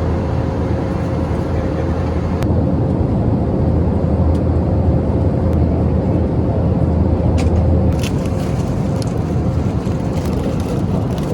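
Steady low rumble of a vehicle heard from inside its cabin, with a faint steady whine that fades out near the end and a few light clicks.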